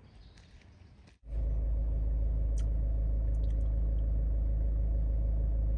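Steady low rumble of a vehicle in motion, starting suddenly about a second in after a quiet moment.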